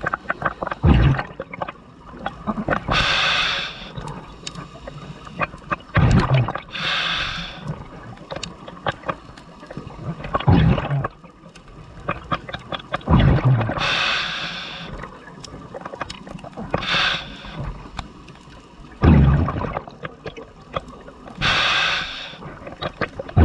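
Scuba diver breathing through a regulator underwater: a hiss on each inhale and a burst of exhaust bubbles on each exhale, repeating about every six to seven seconds.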